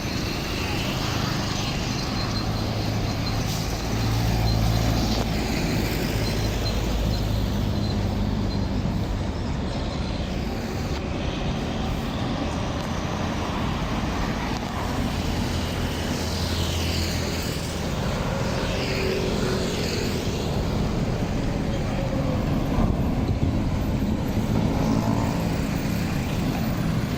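Road traffic with trucks and other vehicles passing: engines running over steady tyre and road noise, with heavier engine passes swelling about four seconds in and again about fourteen seconds in.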